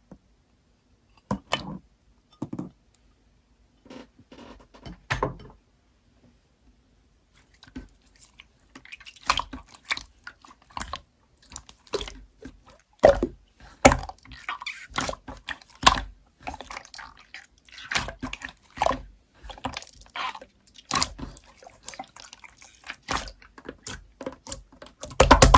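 Irregular close-up clicks and taps, a few scattered ones at first, then coming thick and fast from about nine seconds in.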